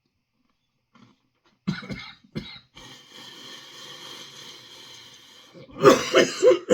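A man coughing after inhaling superhot chilli dust: two short coughs, a few seconds of steady strained breathing, then a loud, harsh coughing fit near the end.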